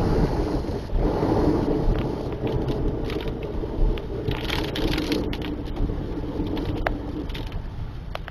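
Car driving on a rain-soaked road: steady road and tyre noise with scattered sharp ticks and crackles, as of rain and spray hitting the car.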